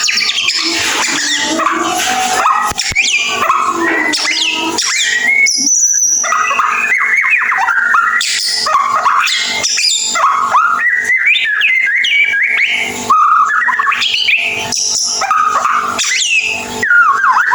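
White-rumped shama singing continuously: a fast, varied string of whistled notes and short trills sliding up and down, the rapid twittering delivery that bird-keepers call ngeriwik.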